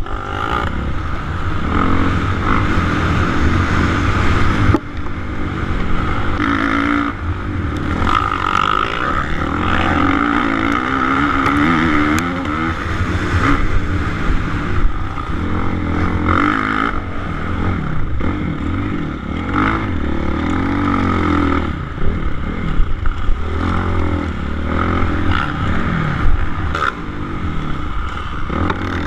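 Suzuki RM-Z450 single-cylinder four-stroke motocross engine racing, its revs rising and falling every second or two as the rider throttles on and off.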